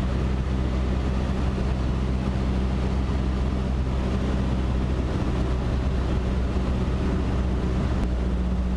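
Cessna 152's four-cylinder Lycoming engine and propeller droning steadily on final approach, with no change in pitch.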